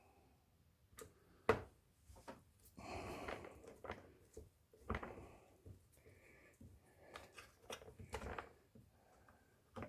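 Scattered clicks, taps and a short scraping rustle of a screwdriver and small parts being handled against a plastic chainsaw housing while Torx screws are worked on.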